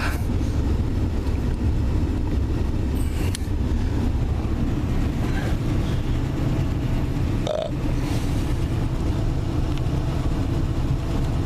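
Chevrolet B-body's 350 small-block V8 idling steadily, with a single short click about seven and a half seconds in.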